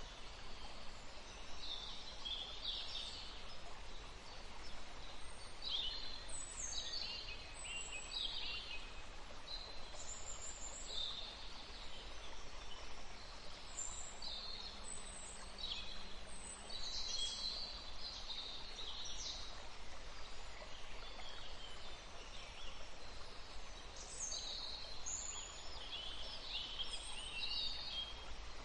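Forest stream running with a steady rush, with several songbirds singing short, high chirps and trills throughout.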